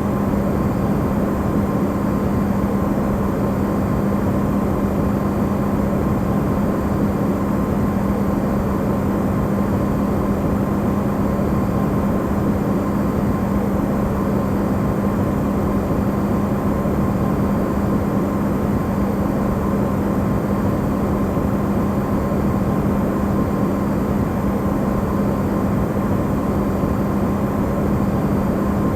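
Electrolux refrigerator running, recorded amplified: a steady low rushing noise with a constant hum near 200 Hz and a faint higher tone, unchanging throughout.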